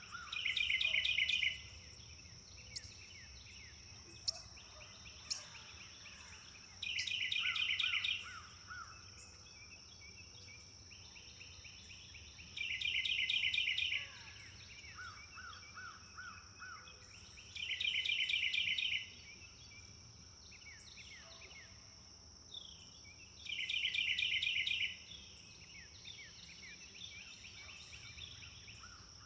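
Forest birdsong: one bird repeats a short, fast trilled phrase of rapidly repeated notes about every five to six seconds, five times, with softer bird calls between. A steady high-pitched hum runs underneath.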